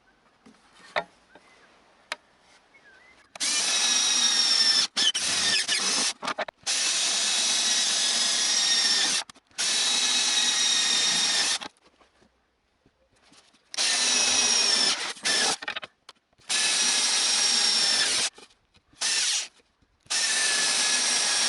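Power drill boring holes in sheet steel, run in repeated bursts of one to two seconds with short pauses between them.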